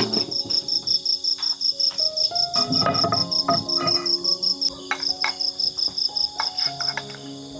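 Insect chirping in a fast, even, high-pitched pulse of about seven chirps a second, breaking off briefly about five seconds in and stopping near the end.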